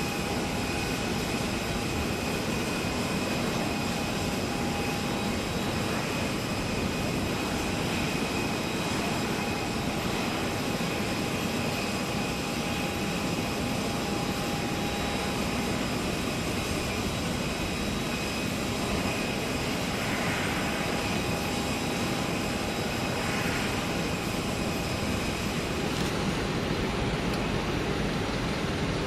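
Airbus A380's jet engines running steadily: a continuous rush with a steady high whine over it. The high hiss thins out near the end.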